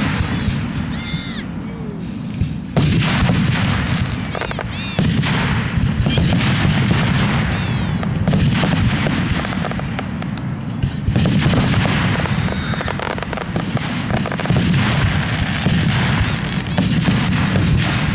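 Aerial fireworks going off in rapid, near-continuous succession: booming bursts and crackles overlapping one another, with a few whistling shells about a third of the way through.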